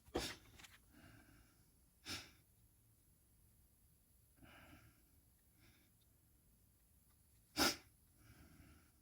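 A person breathing quietly near the microphone, with three short, sharp bursts of hiss: one just after the start, one about two seconds in and the loudest about seven and a half seconds in.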